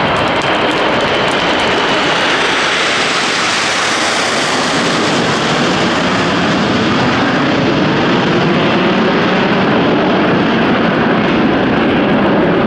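Aermacchi MB-339 PAN jets flying past, with loud continuous jet-engine noise from their Viper turbojets. The high hiss fades over the first several seconds while the lower rumble holds on.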